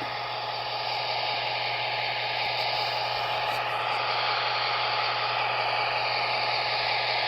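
Steady hiss over a constant low hum from the small speaker of an N-scale Broadway Limited Paragon 4 F7-B model diesel locomotive with its sound on.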